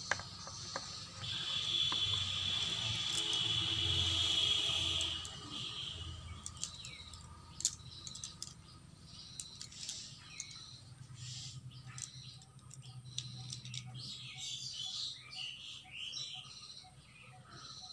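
Birds chirping: many short high calls, with a louder high buzzing trill for about four seconds near the start.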